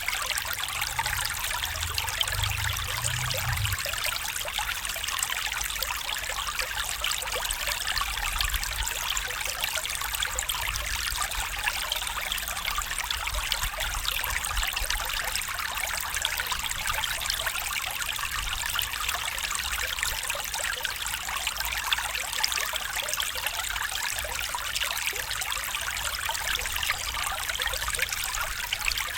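Stream water running and trickling, a steady even rush.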